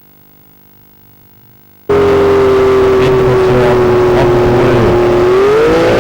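Pulling tractor's engine running loud at high revs, starting abruptly about two seconds in, with a strong steady whine that rises in pitch near the end.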